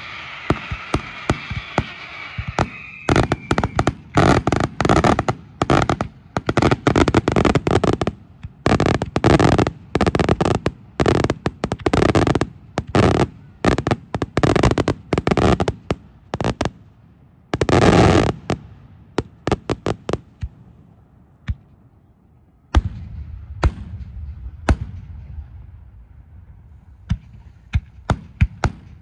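Aerial fireworks shells bursting in rapid volleys of loud bangs and cracks. It opens with a hissing crackle, turns dense from about four seconds in, and thins out after about twenty seconds into a low rumble with scattered reports, before the bangs pick up again near the end.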